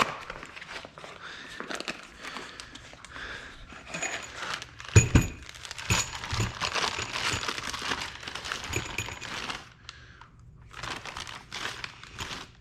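Packaging crinkling and tearing as a set of new cylinder head bolts is unwrapped and handled, with light metallic clinks from the bolts and a knock about five seconds in.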